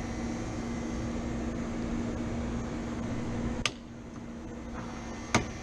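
Steady hum of HVAC equipment with a low tone. A sharp click about three and a half seconds in is followed by a drop in the noise, and a second sharp click comes near the end, typical of switches or contactors being operated as the rooftop unit is powered up.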